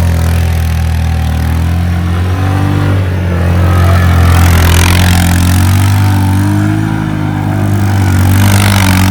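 Small motorcycle engine running close by at fairly steady revs, its pitch climbing and easing back a little twice.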